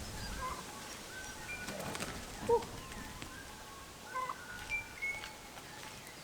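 Birds calling: scattered short, high chirps and whistles, with a louder, lower arched call about two and a half seconds in and a few more calls a little past the four-second mark.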